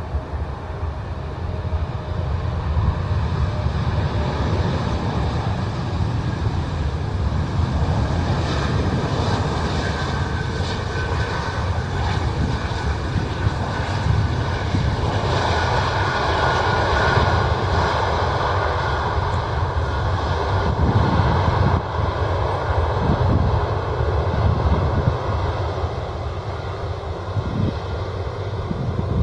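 Jet airliner engines running with a steady roar and a high whine that grows louder through the middle and then eases. Wind rumbles on the microphone underneath.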